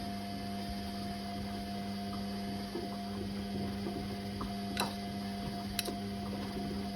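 Whirlpool Indiana 1400 washing machine running mid-programme: a steady motor hum as the drum turns the laundry, with two sharp clicks in the second half.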